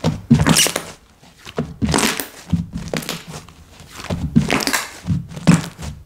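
Hands squishing and pressing slime, in irregular bursts of sound several times over.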